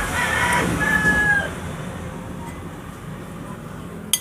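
A rooster crowing once, a drawn-out call with a held note at the end, followed by a sharp click near the end.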